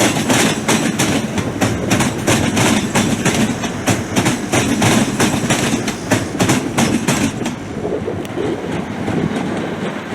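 A train running past, its wheels clicking rapidly and regularly over rail joints above a steady rumble; the clicking thins out and the sound fades during the last few seconds.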